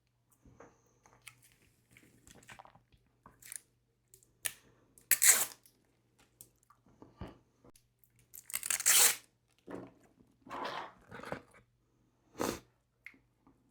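Close-miked eating of McDonald's food: crunching and chewing in short, separate bursts, the two loudest about five and nine seconds in.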